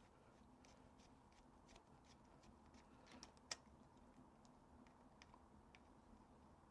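Near silence with a few faint, scattered clicks, the clearest a short cluster about three and a half seconds in.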